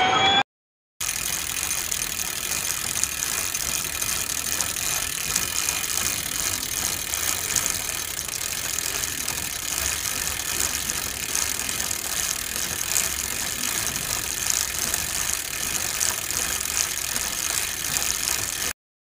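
Bicycle freewheel ratchet clicking in a rapid, steady stream, with a hiss of chain and tyre noise.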